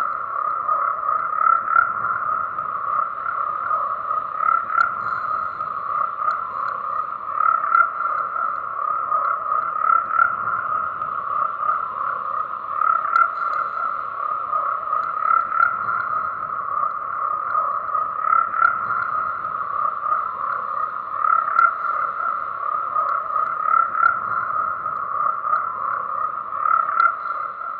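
A dense chorus of frogs croaking: an unbroken mass of overlapping calls, swelling louder about every three seconds.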